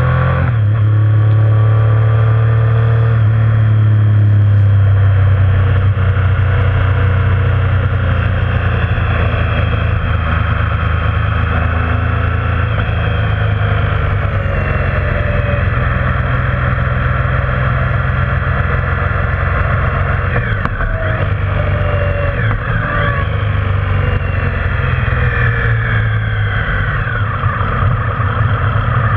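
Motorcycle engine running while riding on the road, its pitch rising and falling with throttle and gear changes.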